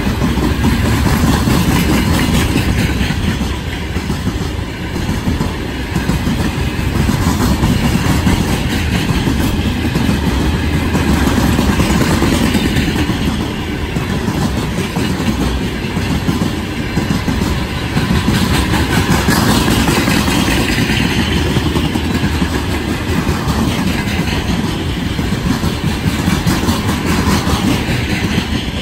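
Heavy freight train's wagons rolling past on the rails, loud and steady throughout.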